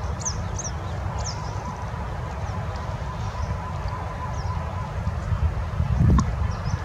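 A few short, high bird chirps in the first second or so, with a couple of fainter ones later, over a steady low rumble. A single sharp thump near the end.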